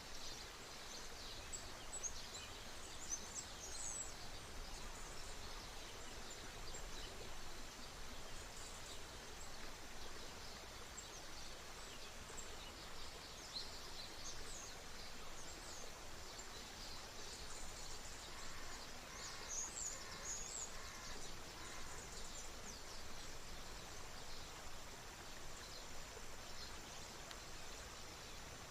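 Outdoor riverside ambience: a steady haze of flowing water with many small birds chirping and twittering high up. About two-thirds of the way through, a bird gives a run of short, evenly spaced lower notes for a few seconds.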